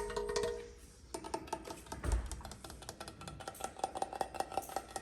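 Fast, uneven tapping on a hard object that rings with a short pitched tone on each tap. There is a brief lull about a second in and a soft low bump about two seconds in.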